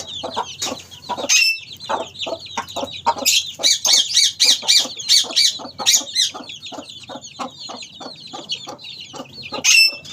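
A flock of hens clucking in short repeated notes while their chicks peep continuously in high pitch, with two louder sharp calls, one about a second and a half in and one near the end.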